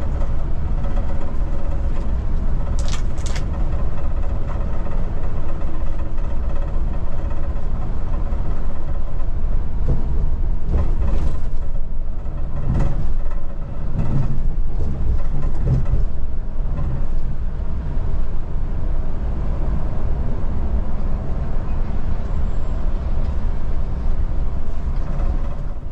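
Scania multi-axle coach on the move: a steady engine drone over low road rumble, with a brief hiss about three seconds in and a few more knocks and hisses midway.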